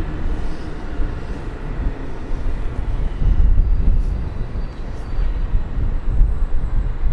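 A train running through a station, heard as a low, steady rumble that grows louder about three seconds in.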